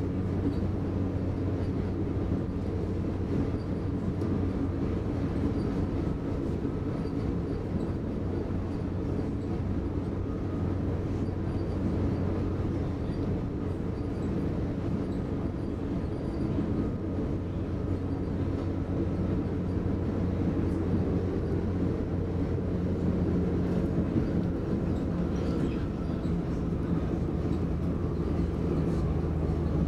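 Interior running noise of an X60 (Alstom Coradia Nordic) electric commuter train travelling at speed, heard from inside the passenger car: a steady low hum over an even rumble.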